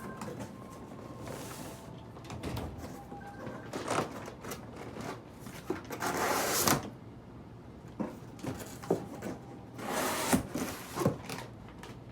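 Packaging being handled while an electric scooter is unboxed: scattered knocks and clicks, with two longer scraping, rustling noises about six seconds in and again about ten seconds in.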